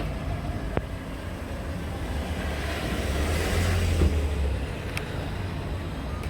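Road traffic: a vehicle passing by, its tyre and engine noise swelling to a peak midway and fading again, over a steady low traffic rumble.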